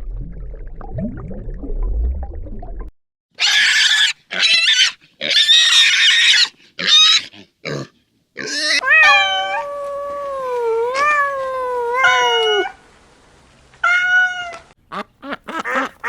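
A string of separate animal calls: a low, rough rumble, then harsh noisy cries, then several long pitched calls that waver and glide up and down like a cat's drawn-out meows, and a shorter meow-like call near the end.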